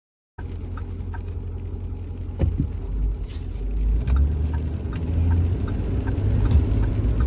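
Vehicle road noise while driving: a steady low rumble that cuts in just after the start, with a sharp knock about two and a half seconds in.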